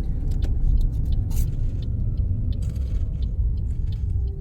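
Car on the move, heard from inside the cabin: a steady low rumble of engine and road noise, with scattered light clicks and rattles.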